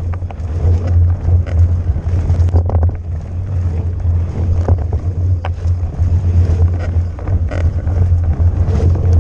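Steady low rumble of wind and riding noise on the camera as an electric mountain bike is ridden fast down a rough trail, with scattered knocks and rattles from the bike over bumps.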